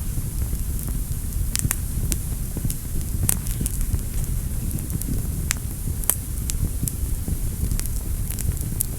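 Wood fire burning in a fireplace: a steady low rumble of the flames with sharp crackles and pops at irregular intervals, about one or two a second.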